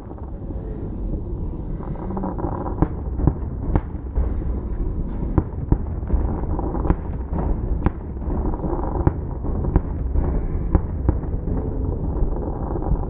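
Fireworks going off: a dozen or so sharp bangs at irregular intervals over a continuous low rumble.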